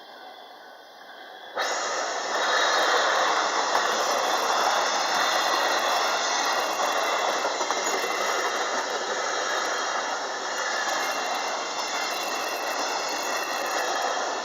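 Train running through the level crossing: a steady rumble and hiss of wheels on rails that starts abruptly about a second and a half in and holds throughout.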